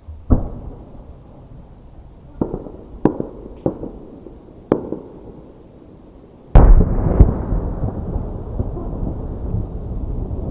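Aerial firework shells bursting. There is one bang near the start and four more over the next few seconds, then the two loudest bursts about six and a half seconds in, followed by a steady low rumble to the end.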